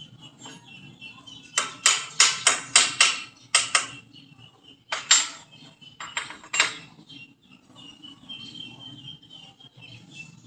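Hammer striking metal: a quick run of about eight sharp, ringing blows, then three more spaced out, with insects chirping steadily underneath.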